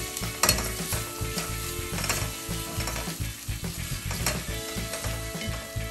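Pilau masala, tomato paste and salt frying with meat and onions in a cooking pot, sizzling steadily as the mixture is stirred. The utensil scrapes against the pot a few times.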